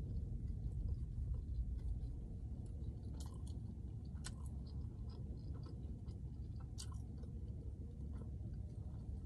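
A person chewing a mouthful of food with no talking, a few faint clicks of lips and teeth scattered through it, over a steady low rumble.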